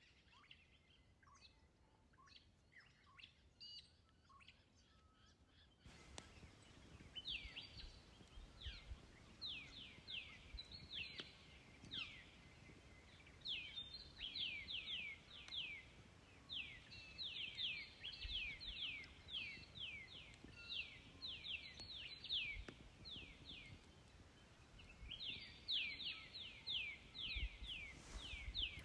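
Wild birds calling: faint scattered calls at first, then from about six seconds in many quick, high chirps that each drop in pitch, coming in rapid runs.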